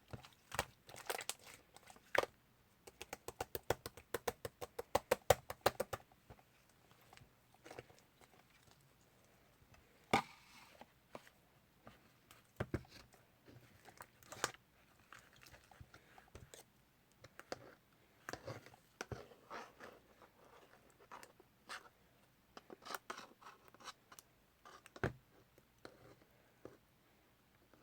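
A series of sharp clicks and taps from small objects being handled, with a fast run of even clicks, about eight a second, starting about three seconds in and ending about three seconds later.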